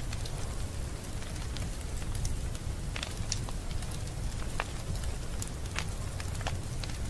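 Wood fire in a fireplace crackling, with small sharp pops coming irregularly, several a second, over a steady low rumble.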